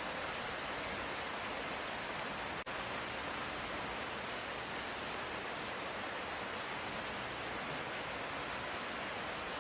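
Steady hiss of light rain, even throughout with no thunder, broken by a brief dropout about two and a half seconds in.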